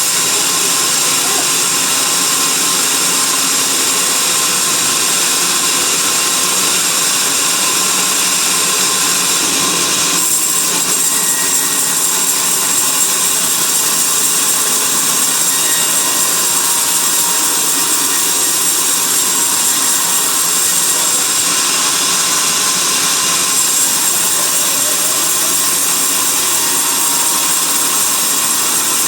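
Band sawmill running steadily through a teak log, a continuous loud saw noise with a high whine, shifting slightly about ten seconds in.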